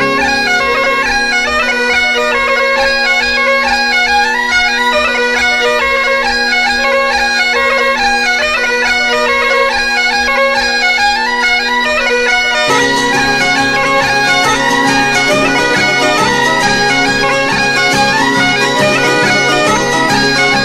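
Background music led by bagpipes, a melody played over steady held drones. About 13 seconds in the music thickens, with lower sustained parts and a regular pulse joining.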